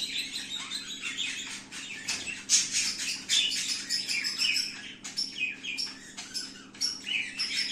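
Zebra finches calling: many short, quick chirps and nasal calls from several birds at once, a lot of them dropping in pitch.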